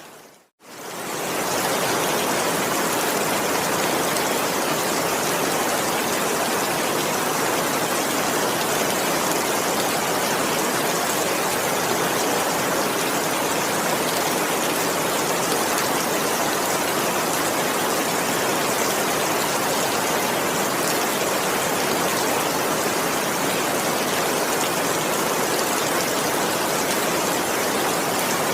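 Heavy rain falling steadily, an even hiss of countless drops with no thunder. About half a second in it fades briefly to near silence and swells back within a second, like the join of a looped recording.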